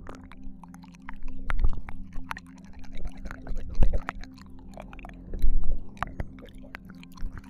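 Binaural ASMR ear licking: close, wet tongue and mouth sounds, irregular clicks and smacks, with louder wet bursts three or four times. A faint steady low hum lies underneath.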